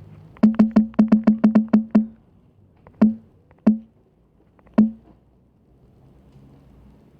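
Short pitched phone notification pops, like incoming chat messages: about ten in rapid succession, then three more spaced out.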